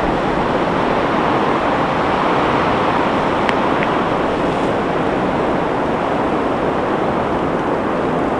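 Blizzard wind blowing steadily in a dense, even rush, with a couple of faint short high ticks about halfway through.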